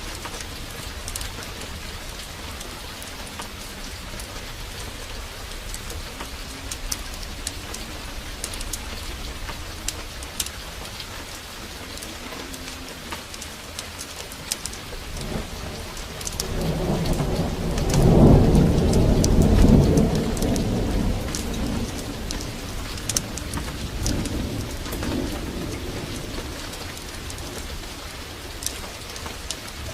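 Heavy rain pouring steadily, with scattered sharp drip ticks. A roll of thunder builds about halfway through, rumbles loudest a couple of seconds later, then fades away.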